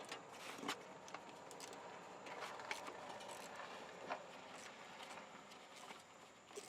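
A 14 mm wrench working the nut off the battery-cable terminal on a truck starter: faint, irregular metal clicks and scrapes.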